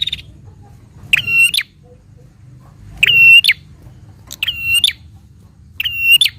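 Prinia calling: a loud half-second call repeated four times at an even pace, about one every second and a half, each built on a steady high note.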